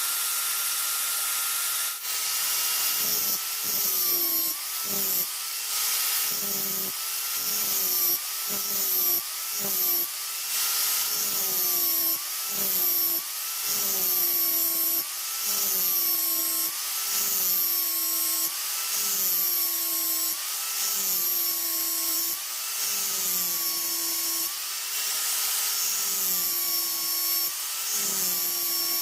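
An electric power tool's motor runs with a steady whine, its pitch dipping about once a second as it is pressed into the work in repeated strokes, with a rasping, scraping noise over it.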